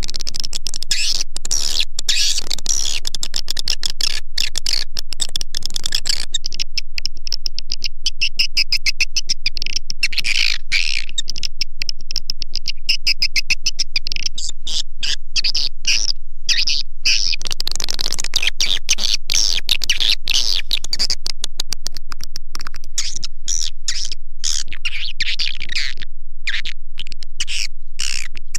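Swiftlet lure call (suara panggil): a dense, continuous chorus of rapid high chirps and twitters at a steady loud level, a track made to be played through tweeters to draw swiftlets into a nesting house.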